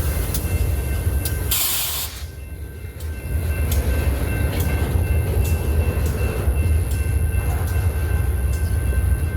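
BNSF freight train rolling slowly past with a steady low rumble and scattered sharp clicks from the wheels. A short burst of hiss comes about one and a half seconds in.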